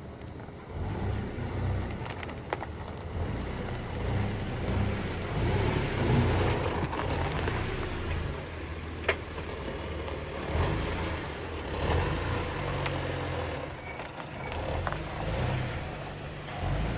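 A vehicle driving, its engine running with an uneven low rumble, over rough ground with scattered knocks and rattles.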